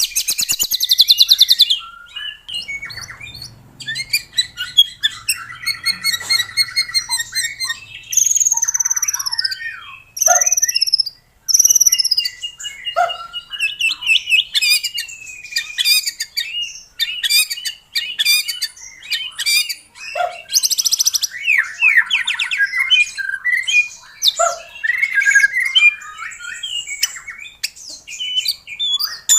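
White-rumped shama in full, continuous song: a fast run of varied whistled phrases, with downward-slurred notes, rapid trills and harsher rattling notes following one another with only short gaps.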